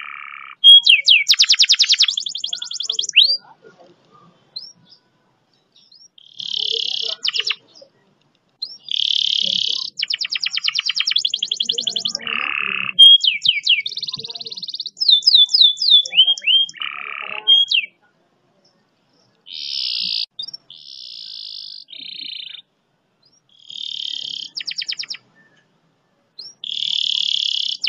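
Domestic canary singing in a string of separate phrases: long, fast rolls and trills of rapidly repeated notes, and quick sliding whistles, with short pauses between phrases.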